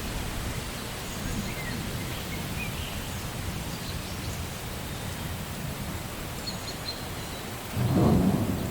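Steady rain falling, with a few faint bird chirps. A low rumble of thunder starts suddenly near the end and is the loudest sound.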